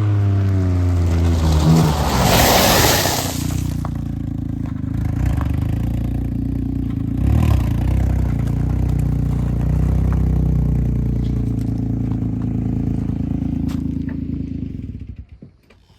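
Smart car being driven, its engine and tyre noise steady, with a loud rushing scrape about two to three seconds in. The sound drops away sharply near the end as the car stops.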